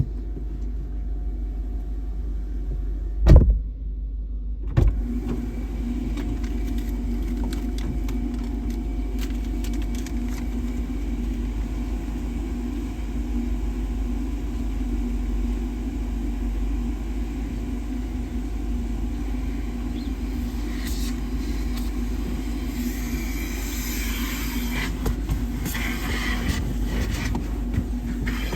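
A car running with a steady low rumble. Two sharp thumps come about three and five seconds in, and a hissing noise rises near the end.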